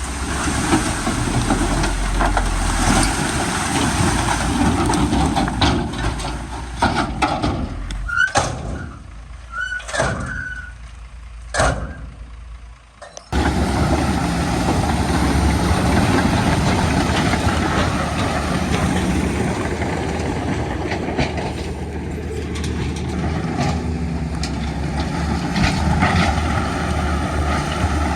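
Heavy diesel earthmoving machinery running: engine noise with a few sharp clanks and short squeals around the middle, then an abrupt change to a steady engine drone.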